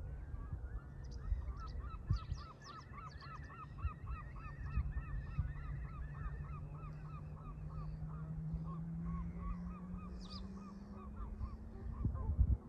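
A flock of Canada geese honking in a long run of calls, about three a second, fading out near the end. Under the calls there is a low drone that slowly rises in pitch, and a low rumble.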